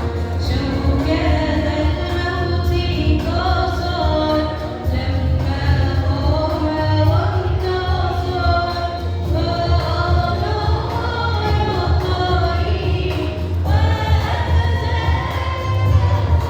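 Music with a choir singing over a heavy, steady bass.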